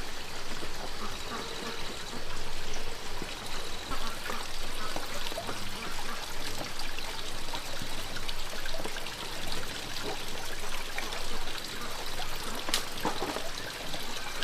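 Water trickling and running steadily, with one sharp knock near the end.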